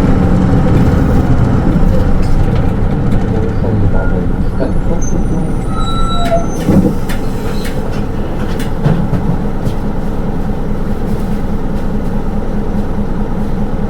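Interior sound of a Hino Rainbow II SDG-KR290J1 city bus on the move: diesel engine and automatic transmission running, with road and body noise. The engine note is strongest for the first few seconds and then eases off, with a brief knock about seven seconds in.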